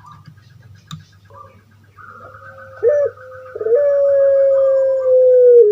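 Puter pelung (Barbary dove) calling: a short note about three seconds in, then one long drawn-out coo held at a steady pitch that drops slightly at the end.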